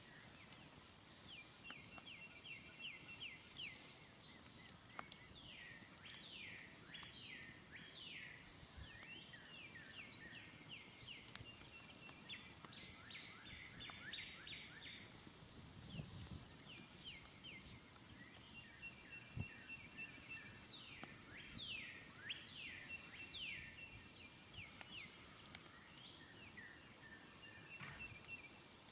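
Birds chirping repeatedly in quick falling notes, with a pulsing trill between them, over the faint scattered crackle of a smoldering campfire. One soft low thud comes about halfway through.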